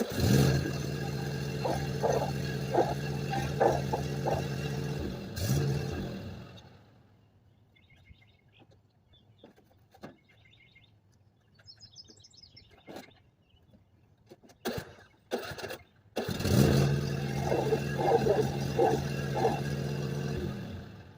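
A small walk-behind lawn mower engine starts and runs at a steady speed for about five seconds, then is shut off; about sixteen seconds in a mower engine starts again and runs steadily until it winds down near the end. Between the two runs, birds chirp and there are a few sharp clicks.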